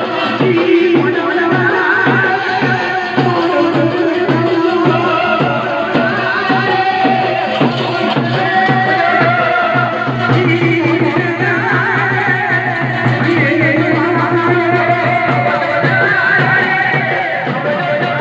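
Folk music with a dhol drum beating a steady, fast rhythm under singing and a wavering melody line.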